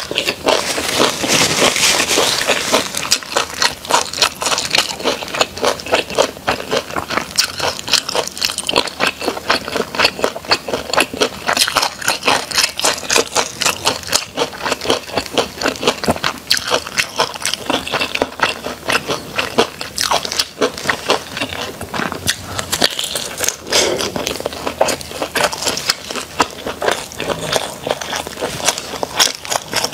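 Close-miked chewing and biting of a sausage: a dense, continuous run of small clicks from the mouth.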